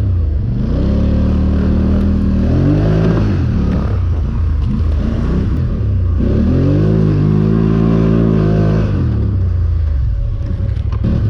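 Four-wheeler engine revving up and easing off twice, its pitch climbing and falling as the ATV accelerates through deep snow. A few light knocks come near the end.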